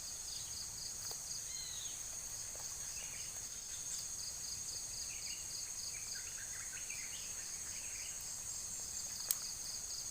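Insects trilling steadily in a high, continuous chorus, with a rapid pulsed chirping running beneath it and short chirps here and there. A single sharp click sounds about nine seconds in.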